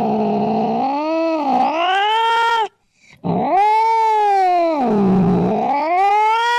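Domestic cat yowling: two long, drawn-out calls, each sliding down in pitch and back up, with a short break about three seconds in.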